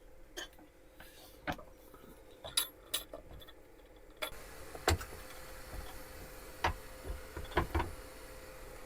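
Scattered sharp clicks and light clinks of small hard objects, about a dozen over several seconds, over a faint steady hum; the background noise grows louder about four seconds in.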